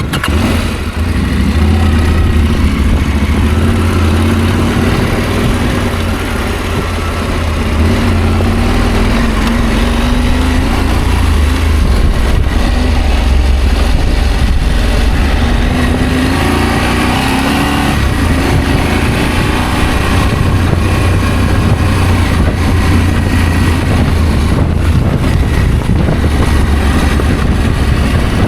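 Adventure motorcycle engine running under way, its note rising and falling a little with the throttle, over steady wind and road noise.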